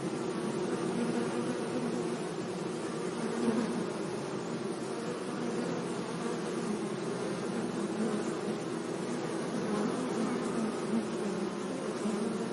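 Bees buzzing steadily among flowers, a continuous overlapping drone.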